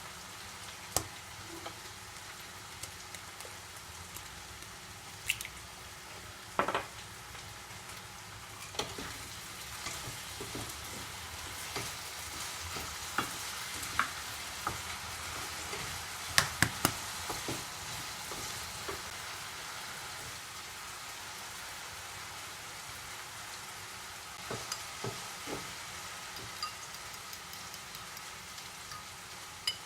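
Food sizzling steadily in a frying pan, with scattered sharp clicks and taps from a utensil stirring or turning it, most of them about halfway through.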